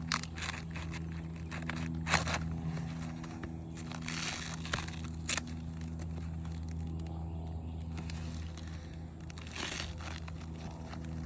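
An old asphalt shingle stuck to the roof deck being pried and torn loose, with scattered short scraping, crackling rasps. A steady low hum runs underneath.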